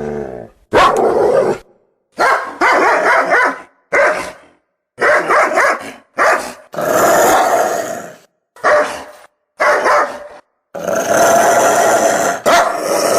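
Dog barking and growling in a run of separate loud bursts, each cut off abruptly into silence like spliced clips.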